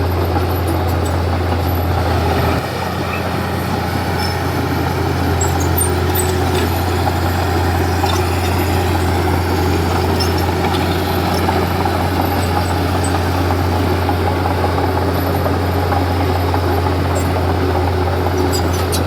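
Komatsu D31P bulldozer's diesel engine running steadily under load as the machine works, with a deep steady hum. The note drops slightly about two and a half seconds in.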